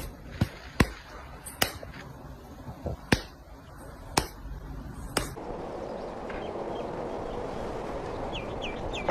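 A series of about seven sharp knocks or taps at uneven intervals over the first five seconds, followed by a steady background hiss.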